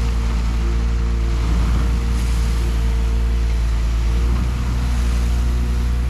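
Truck engine running steadily: a low rumble with a steady hum above it.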